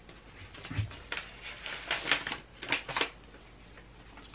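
Paper rustling: a folded ballot paper being handled and pushed into a paper envelope, heard as several short rustles and crinkles.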